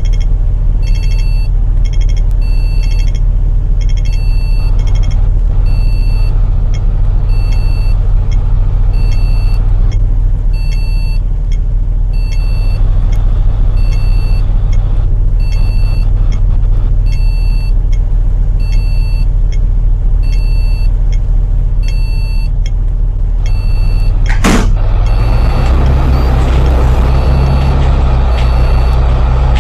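Bus engine idling with a steady low drone under a repeating electronic beep, a little faster than once a second. About 24 seconds in, a short sharp burst of air hiss, then the engine note rises and gets louder while the beeping continues.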